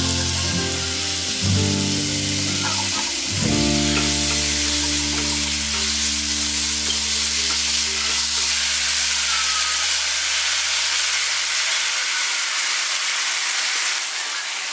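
Pork pieces, chopped onion and bell pepper sizzling in a pot while being stirred with a wooden spatula. Background music plays over most of it and stops near the end.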